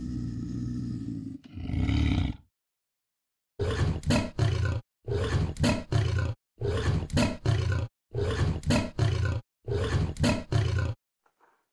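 A large animal's deep roaring calls: one call about a second and a half in, a pause, then five evenly spaced bouts of about three grunting pulses each.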